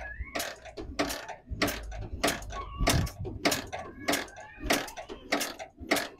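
Motorcycle engine being kicked over with its spark plug out and a fingertip over the plug hole: short puffs of air and oil spitting past the finger, about three a second, with brief thin whistles between some of them. The puffs come from compression building in the cylinder as oil loosens the carbon deposits that have been holding the valves open.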